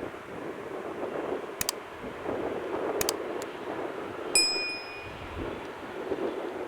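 A few sharp clicks, then a single short metallic ding that rings for about half a second, over a steady background rumble.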